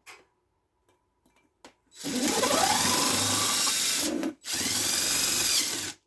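Power drill run in two bursts of about two seconds each, the first rising in pitch as the motor spins up.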